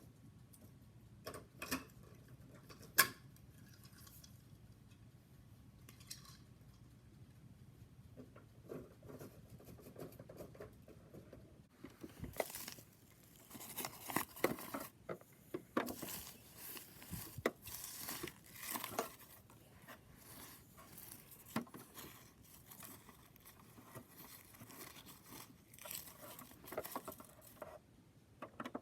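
Light handling noises from a small plastic toy garbage truck: scattered clicks and rustling, with one sharp click about three seconds in and busier clicking and crinkling over the second half.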